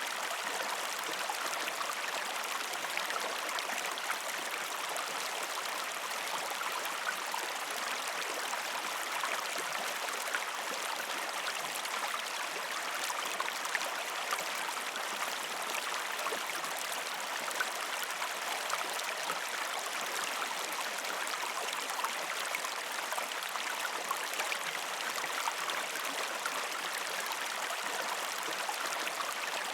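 River stream flowing over rocks: a steady rush of water, dotted throughout with many small splashes.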